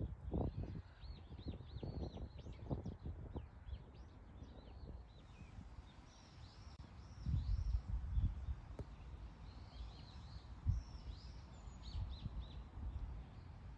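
Small birds chirping over and over in short, arching calls, thick in the first few seconds and returning twice later. Under them run irregular low thumps and rumble, loudest about seven to eight seconds in.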